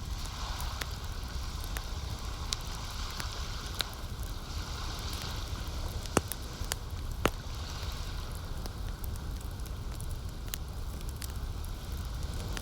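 Campfire crackling, with scattered sharp pops and two louder pops about six and seven seconds in, over a steady low rumble and a soft hiss that swells and fades every couple of seconds.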